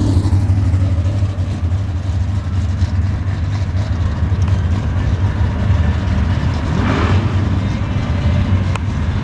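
Slow-moving cruise cars passing in a long line, their engines running with a steady low rumble. About seven seconds in, one engine's pitch rises and falls as it goes by, and a sharp click comes near the end.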